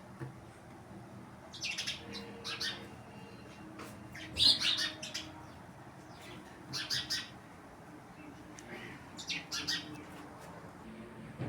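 Small birds chirping in four short bursts of quick, high chirps with pauses between. The loudest burst comes about four and a half seconds in.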